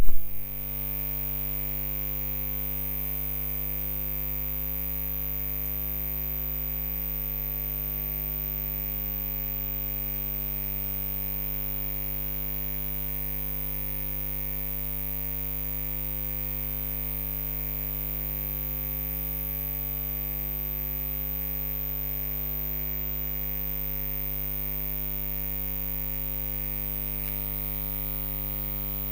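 Steady electrical mains hum: a low buzz with a stack of evenly spaced overtones, holding unchanged throughout.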